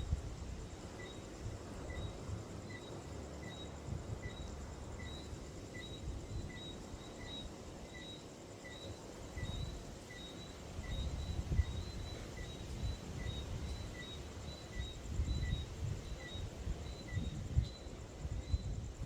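Outdoor ambience: a steady high insect buzz, with a short chirp repeated about every two-thirds of a second and fainter higher chirps over it. Under these runs an irregular low rumble that grows stronger after about ten seconds.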